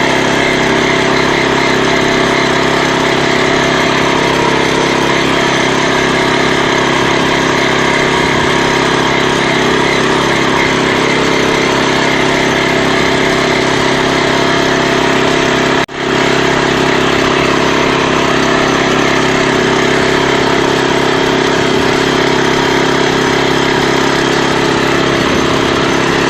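Walk-behind tractor's engine running steadily at a constant speed while pulling a loaded trailer along the road. The sound drops out very briefly about sixteen seconds in.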